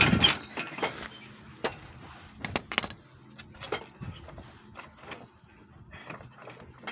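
Secondhand metal sailboat hardware being worked by hand, giving a scuffing rattle at the start, then irregular clicks and clacks. The fitting is stiff and needs oil, but it works.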